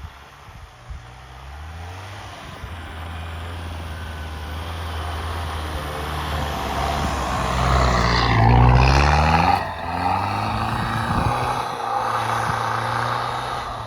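Mitsubishi L200 pickup engine working hard through deep snow. Its revs build and it grows louder to a peak about two-thirds of the way through, with the pitch bending, then it eases and keeps running.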